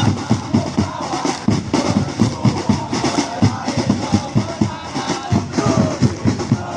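Football supporters' drums beating a fast, steady rhythm, several strikes a second, with a crowd chanting over them in the stands.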